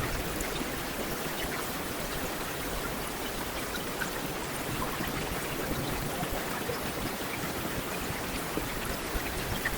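Heavy rain falling steadily on a street, an even hiss with scattered individual drops ticking.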